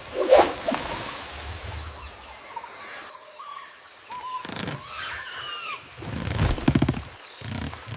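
Short animal calls, including a squealing call that glides up and down about five seconds in, with a knock near the start and a quick pulsed call near the end.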